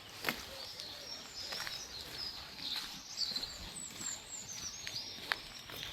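Several songbirds chirping and singing, many short high calls and trills overlapping, with a few sharp clicks.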